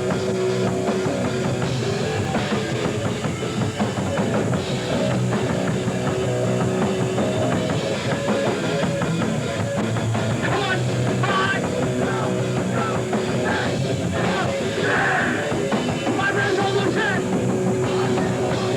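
Hardcore punk band playing live: loud distorted electric guitars, bass and a drum kit.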